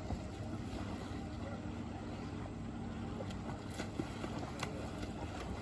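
Small boat's outboard motor running steadily at low speed, with a few faint knocks.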